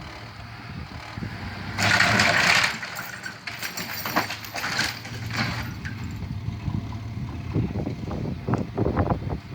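Truck engine running steadily as it pulls on a house, with a loud burst of noise about two seconds in and scattered cracks and knocks after it.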